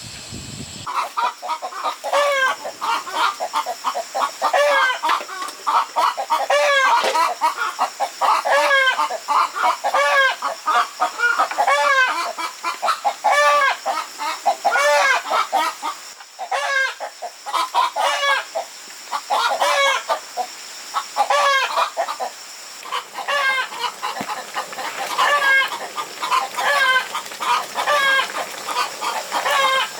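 Chickens clucking, call after call, several overlapping. They start suddenly about a second in.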